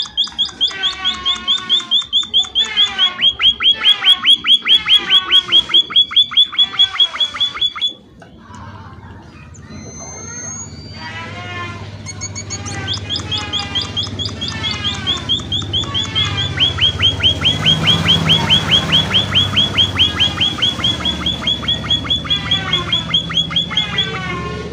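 Emprit (a small munia-type finch) calling in long, fast trains of high, repeated chirps, about six a second. A pause of a few seconds separates two runs of the call.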